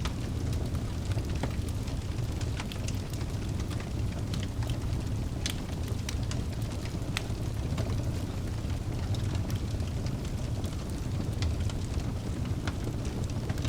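Log fire in a fireplace crackling: irregular sharp pops and snaps scattered over a steady low rumble.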